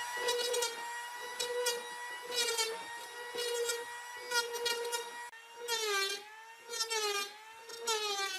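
High-speed power tool motor running with a steady whine. Every second or so it brightens briefly, and in the second half its pitch sags several times as the tool is loaded against the wood.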